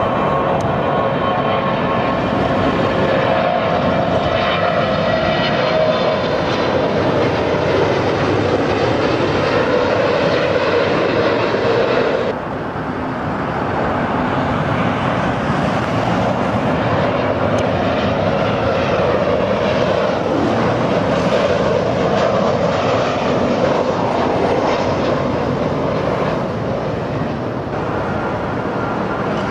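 Airplane engines running loud and steady, with a whine of several steady tones over a rushing noise; the sound changes abruptly about twelve seconds in to another stretch of loud engine noise.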